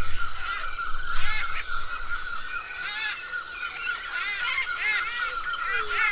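A flock of parrots chirping and calling, with many short, rising-and-falling calls overlapping over a continuous trilling tone. A low rumble sits underneath for the first couple of seconds.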